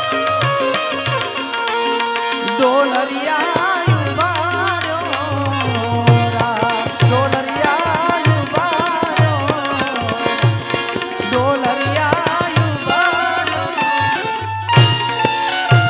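Live Gujarati folk wedding-song music: tabla keeping a steady rhythm with deep bass strokes under a wavering melody line from the accompanying instruments.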